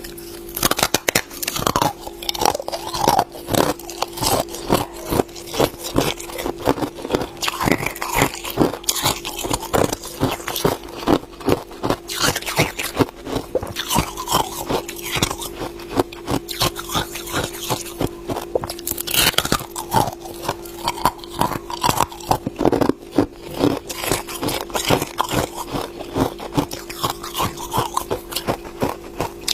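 Ice being bitten and chewed close to the microphone: rapid, irregular crunching and crackling throughout.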